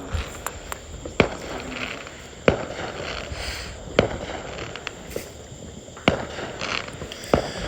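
Fireworks going off: a run of sharp bangs about every second and a half, five loud ones with smaller pops and crackle between.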